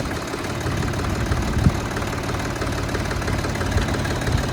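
Siromer 304 tractor's diesel engine idling steadily, just restarted after its fuel system was bled of air.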